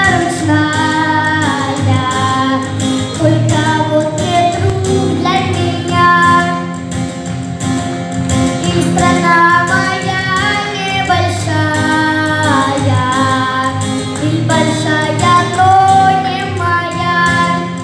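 A young girl singing solo, holding long notes that bend in pitch, over instrumental accompaniment.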